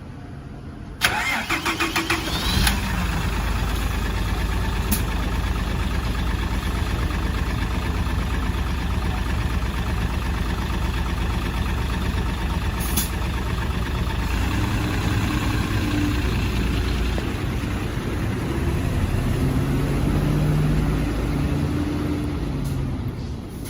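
City bus's diesel engine started: the starter cranks briefly about a second in, the engine catches within about two seconds and then settles into a steady idle, its note rising and falling a little near the end.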